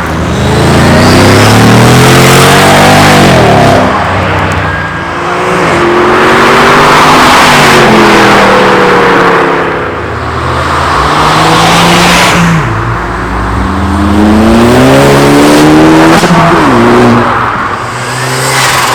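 Tuned cars accelerating hard away, very loud. The engine note climbs in a series of rising revs, each ending in a sharp drop in pitch, about four times over.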